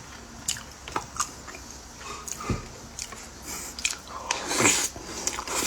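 Close-miked eating sounds: biting into and chewing a soft mochi pastry filled with pork floss, with sharp wet mouth clicks and smacks. A louder, longer swishing sound comes about four and a half seconds in.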